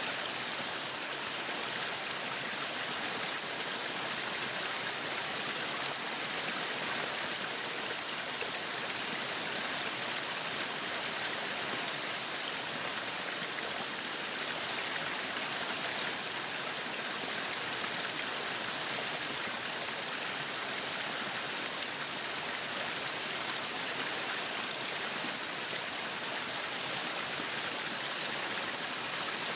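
Meat sizzling on a yakiniku grill: a steady, unbroken hiss of fat spitting and frying.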